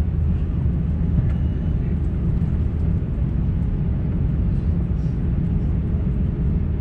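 Airbus A350-900 cabin noise heard from a window seat: a steady low engine rumble with a hiss of air over it.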